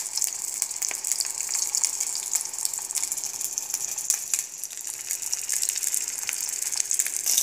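Frozen potstickers frying flat side down in hot vegetable oil in a non-stick pan: a steady high sizzle with scattered small crackles and pops as the bottoms brown and crisp.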